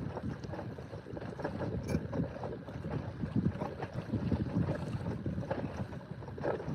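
Wind buffeting the microphone aboard a small inflatable boat at anchor, an uneven rumble that rises and falls in gusts.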